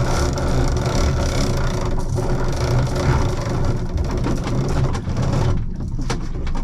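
A small boat's engine running steadily at low revs, with a hiss over it that drops away about five and a half seconds in.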